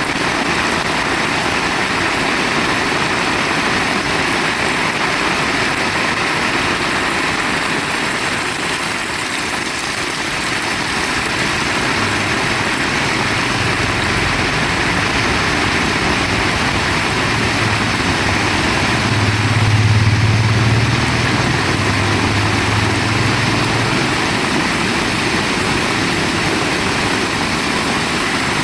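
Heavy rain pouring down steadily. Midway a low rumble swells, peaks and fades away again.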